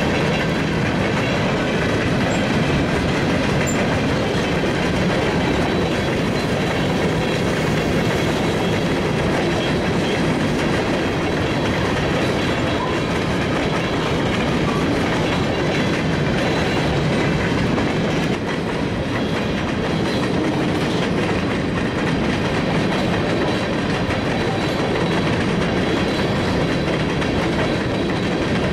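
A train rolling past on steel rails, with a steady run of wheel-on-rail noise throughout.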